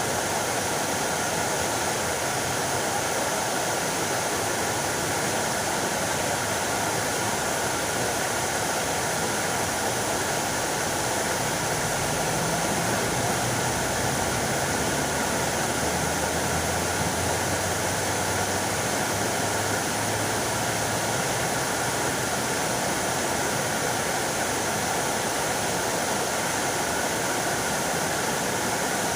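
Fountain water splashing and falling in a steady, even rush. A faint low hum joins in the middle.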